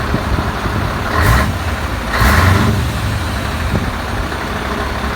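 Scania 143H truck's V8 diesel engine running with a steady low rumble, broken by two short, louder surges about a second and two seconds in.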